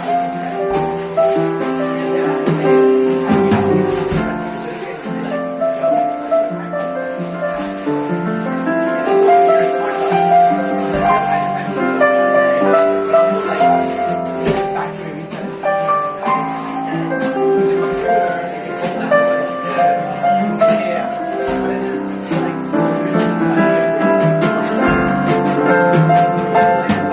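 Live jazz band playing, with piano and light shaker or cymbal percussion keeping a steady ticking beat, and bar patrons chatting underneath.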